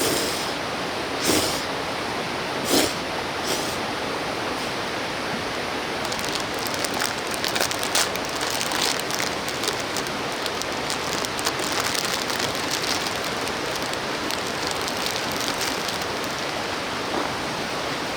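Mountain stream running steadily, an even rush of water. Two sharp snaps come in the first three seconds, and a dense run of small crackles starts about six seconds in and thins out near the end.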